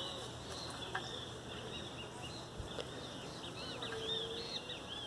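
Small birds chirping: a busy run of quick, high chirps, with a few faint clicks.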